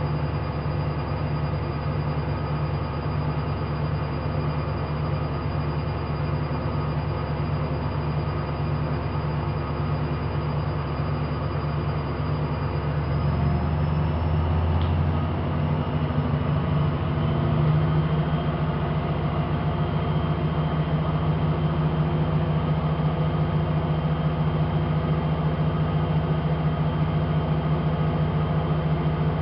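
AEG Lavamat 5210 washing machine running its drum motor with a continuous hum; about halfway through the pitch steps up and it gets a little louder, the motor speeding up, then it holds steady.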